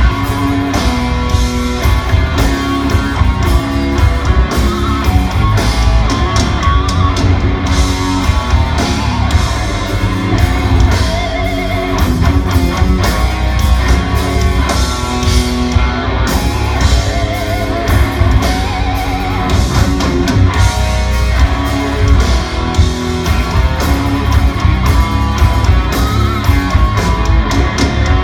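Viking metal band playing live in an instrumental passage: distorted electric guitars carrying the melody over bass and drums.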